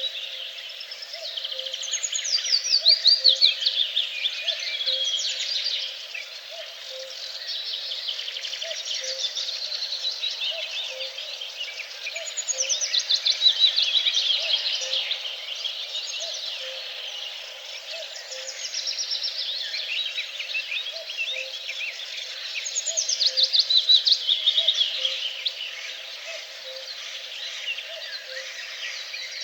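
A dawn-chorus-like mix of many songbirds singing at once. A louder song of rapid falling trills comes back about every ten seconds, under a faint low note repeating about once a second.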